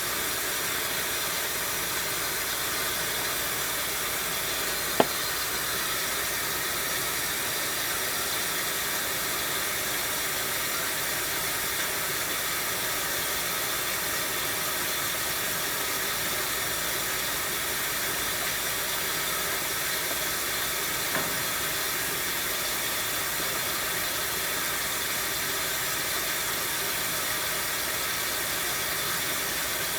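1974 Zoppas Superautomatic 242 washing machine giving off a steady, even hiss during its 80°C wash, with a single sharp click about five seconds in.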